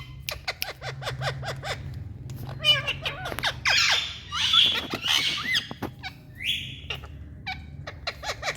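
Parrots squawking and chirping to each other in quick runs of short, sharp calls, some sliding in pitch, over a steady low hum.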